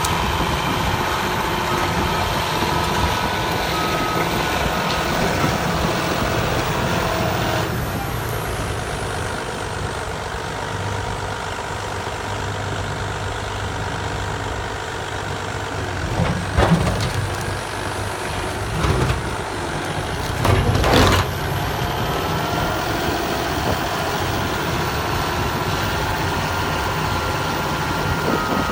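Caterpillar D9 bulldozer's diesel engine running under load, its backup alarm beeping at the start and again in the last few seconds. A few louder bangs come in the middle stretch.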